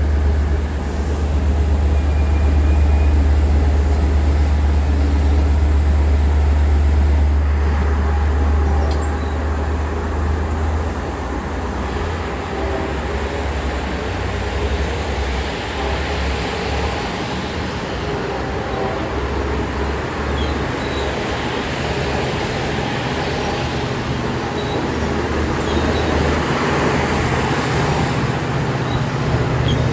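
Diesel train at the station: a heavy low rumble that eases about ten seconds in, followed by a rising wash of rolling noise toward the end.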